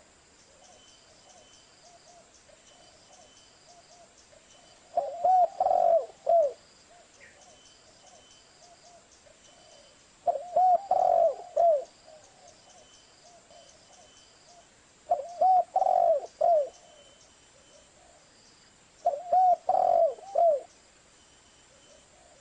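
Zebra dove (perkutut) cooing: four phrases of several quick coos each, about five seconds apart.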